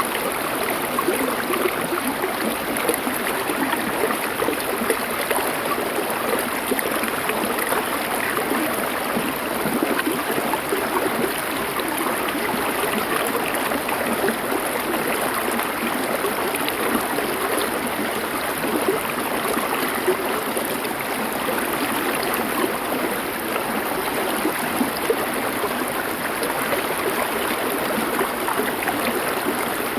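River water flowing over stones: a steady, even rush and babble with no separate events.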